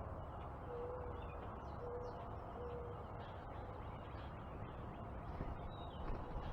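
A bird gives three short, low hooting notes of even pitch in the first three seconds, over faint high chirps from small birds and a steady low background rumble.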